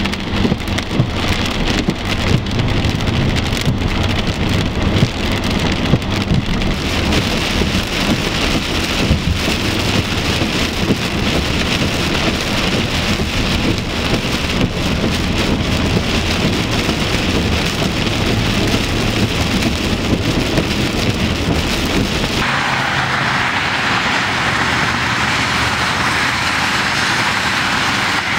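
Heavy rain hitting a car driving on a wet highway, with steady tyre and road noise underneath. About three quarters of the way through, the sound switches abruptly to a brighter, steadier hiss of rain and tyre spray from passing traffic.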